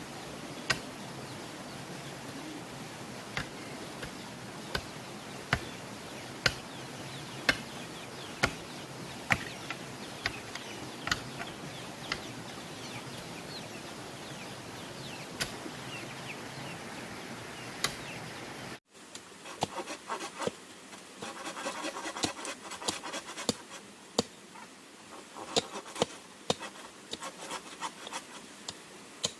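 Sharp knocks, a little under one a second, over a steady insect buzz. About two-thirds of the way through, the sound cuts off abruptly, and quicker tapping and scraping, like wood being worked, follow.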